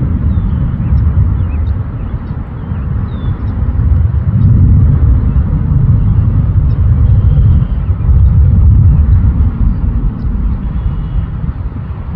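Loud, gusting low rumble that swells and fades every few seconds, typical of wind buffeting the microphone. Faint high bird chirps sound now and then.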